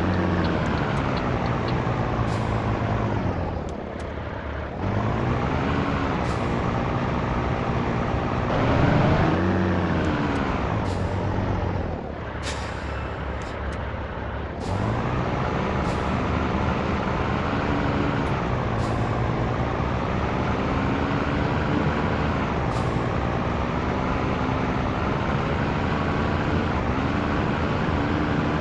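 Heavy Scania truck's diesel engine under way, its note climbing and falling. It drops away twice, briefly about four seconds in and for a couple of seconds around the middle, then pulls up again. Several short sharp hisses sound through it.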